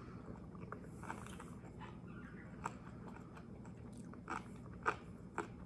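Close-up chewing of a mouthful of a bologna, cheese and asparagus protein wrap: soft wet mouth clicks, with a few louder smacks in the second half.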